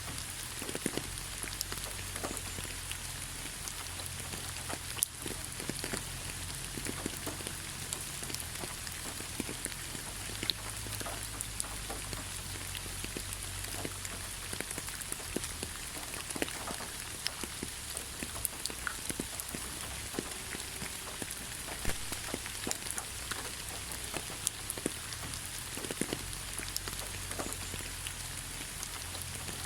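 Steady rain falling in a pine forest: a constant hiss with many individual drops tapping close by, over a low steady rumble.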